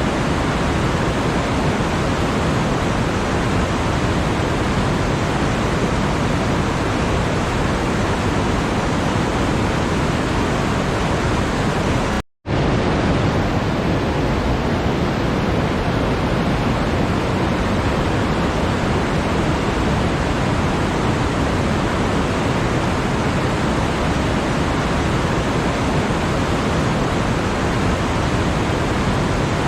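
Steady, loud rushing noise, even across low and high pitches with no rhythm or tones, like pink noise. It drops out completely for a split second about twelve seconds in, then carries on unchanged.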